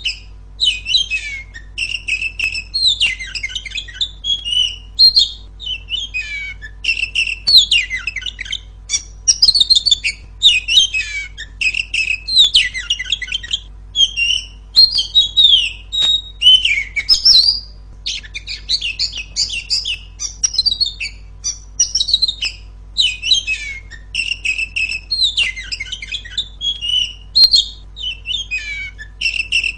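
Oriental magpie-robin singing loudly and without pause: a fast run of varied whistles, trills and chattering phrases with brief gaps between them.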